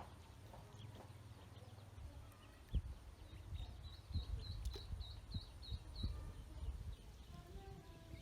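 A duckling peeping: a quick run of about eight short, high chirps in the middle, over a low rumble with a few soft knocks, the loudest about three seconds in.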